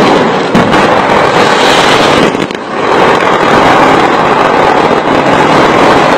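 A fireworks display with aerial shells and ground fountains going off together: a loud, near-continuous wash of bursts and crackle, with a brief lull about two and a half seconds in.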